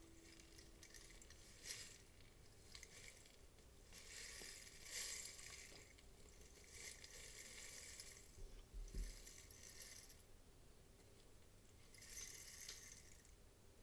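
Rain stick tipped slowly, its beads trickling through the tube in faint swells of soft pattering, each about a second long.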